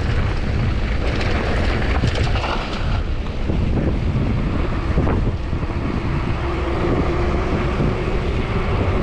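Wind buffeting an action-camera microphone during a fast downhill mountain-bike descent, with tyres on dirt and the bike rattling over rough ground.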